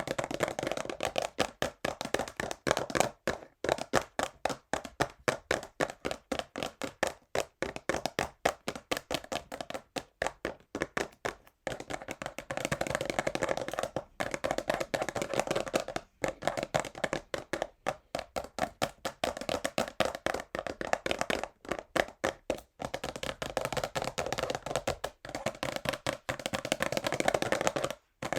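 Fingernails tapping fast on a cardboard perfume box, mixed with scratching and touching on its crinkly plastic wrap, in quick runs of sharp clicks.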